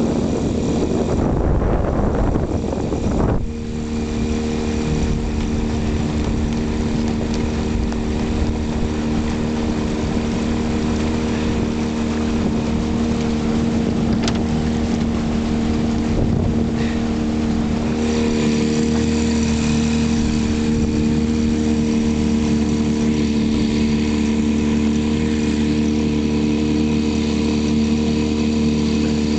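Outboard motor running at steady speed as the boat moves along, with wind and rushing water loud in the first few seconds before the engine's steady drone takes over.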